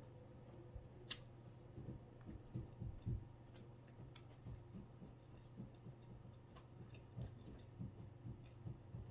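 Person chewing food close to the microphone: soft, irregular mouth sounds about two a second, with a sharp click about a second in, over a steady low hum.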